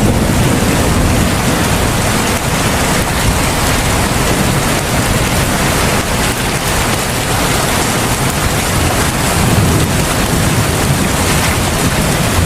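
Heavy rain falling steadily: a dense, even hiss with a strong low rumble underneath.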